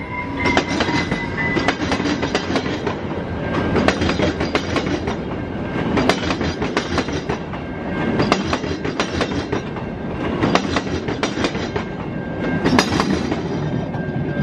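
A train rolling past at close range, its wheels clattering in a dense run of irregular clicks over a steady rumble.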